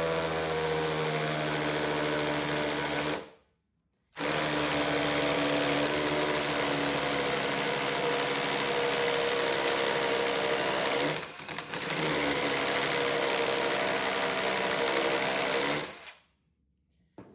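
Brushed Ryobi SDS hammer drill with a 1-inch bit hammer-drilling into brick, run in three long bursts. It stops about three seconds in, starts again a second later, drops out briefly past the middle, then runs until near the end. It is only just getting the start of a hole.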